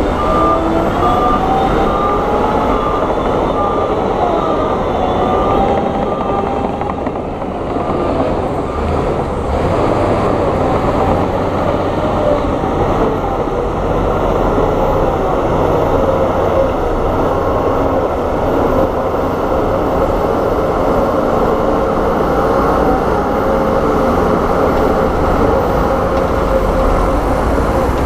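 Heavy diesel earthmoving machines working, with a continuous low engine rumble and wavering metallic squeals. A reversing beeper sounds in even, rapid beeps for the first several seconds, then stops.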